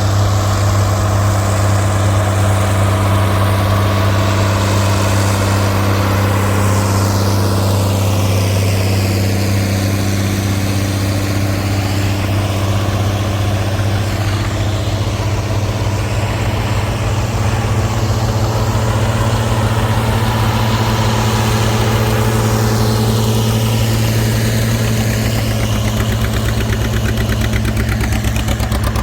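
Tractor engine running steadily under a constant, deep, even note, with a swirling change in the hiss as it moves past.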